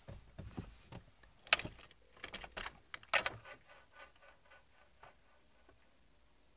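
Irregular clicks and knocks, the loudest two about a second and a half apart, thinning out after about four seconds, with no engine running.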